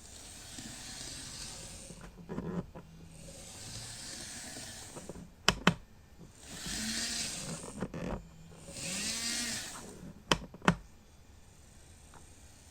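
Soft rustling swells of handling packaging, with a pair of sharp clicks about five and a half seconds in and another pair near ten and a half seconds.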